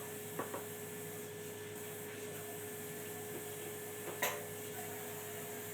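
Steady electrical hum with a constant tone, with a faint click about half a second in and a brief sharp sound about four seconds in.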